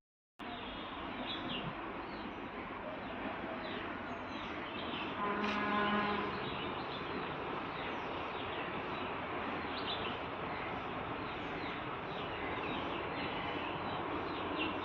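Birds chirping over a steady outdoor background hiss, with a single low, drawn-out cow moo about five seconds in.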